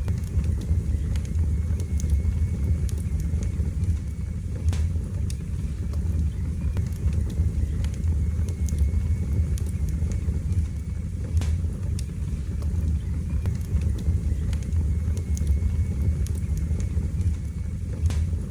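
Wood fire burning in a fireplace: a steady low rumble of flames with occasional sharp crackles and pops from the burning logs.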